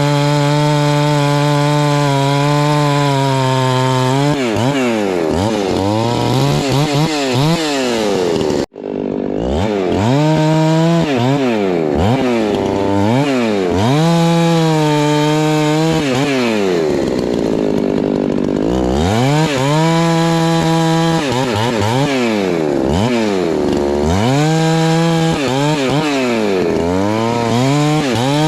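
Husqvarna 390 XP two-stroke chainsaw held at full throttle, then its pitch repeatedly dropping and climbing back every second or so as it loads up and frees in the cut through a log, with one longer low stretch late on. The sound cuts out sharply for an instant about nine seconds in.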